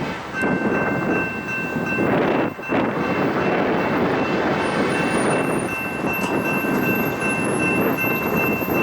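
A train passing with a steady rushing rumble and a high-pitched tone held above it. The tone drops out about two seconds in and comes back about halfway through.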